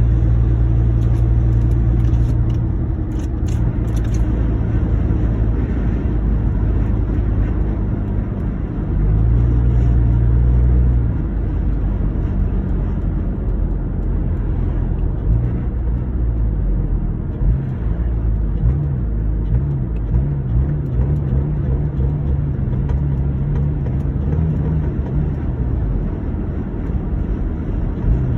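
2009 Honda Accord's engine running, which the owner says has intake and exhaust leaks. It gets louder for a couple of seconds about nine seconds in, then runs on more unevenly, with small spikes in the second half.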